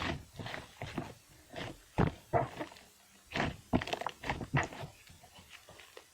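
Clay slime being squished, pressed and stretched by hand, giving a run of irregular wet clicks and squelches of varying loudness.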